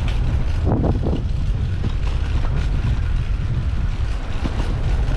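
Wind buffeting the microphone of a bicycle-mounted action camera while riding, a constant low rumble, with a short pitched sound about a second in.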